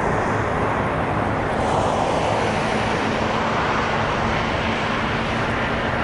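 Steady rumble of an approaching Norfolk Southern freight train's GE diesel locomotives, with a faint steady hum.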